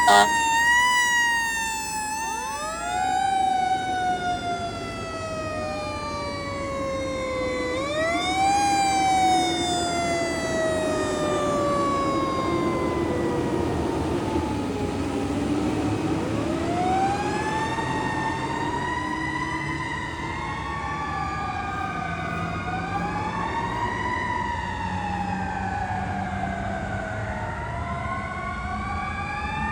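Fire apparatus sirens on a response, several overlapping: a steady high tone breaks off right at the start, then a long slow falling wail that climbs again about eight seconds in. From about halfway through, wails rise and fall every few seconds over the running of the trucks' engines.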